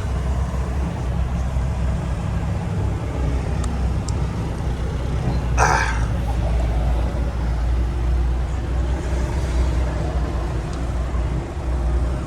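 Tractor-trailer's diesel engine running steadily as a low rumble, heard from inside the cab, with a brief burst of hiss about five and a half seconds in.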